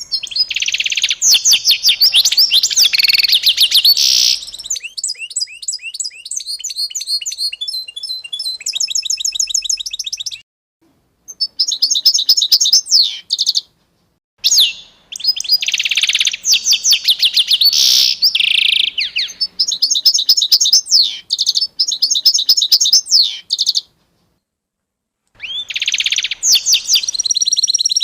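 Songbirds chirping and singing in rapid trills and repeated high notes, with several birds overlapping. The song is broken by short spells of dead silence, three times.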